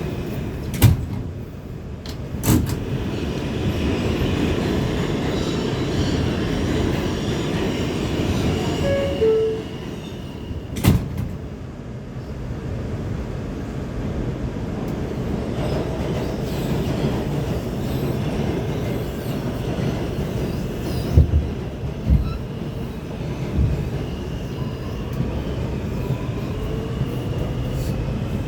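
A New York City subway A express train running between stations, heard from inside the car: a steady low rumble of wheels and running gear, with a few sharp knocks along the way and a faint rising whine near the end.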